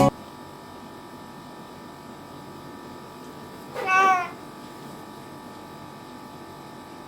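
A cat meows once, a single short call that rises and falls in pitch, about four seconds in, over a faint steady background hum.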